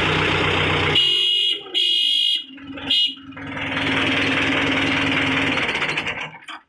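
A running engine with a hiss stops about a second in. A few short, high electronic beeps follow, then a steady hum with a hiss that fades out near the end.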